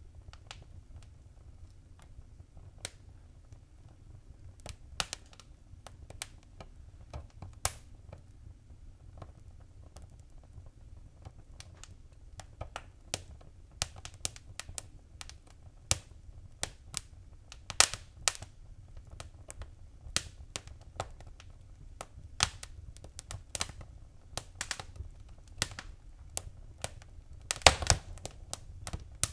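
Wood fire crackling in a fireplace: irregular sharp pops and snaps over a low steady rumble of the flames. The pops come more often in the second half, with a quick cluster near the end.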